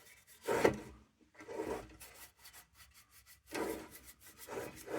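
A bristle brush stroking a treatment onto the rusty tin of a lantern: several separate short rubbing swishes with short pauses between them.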